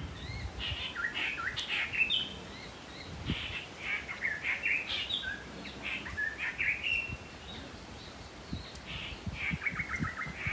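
Birds chirping and singing, a steady run of short, high calls and quick trills.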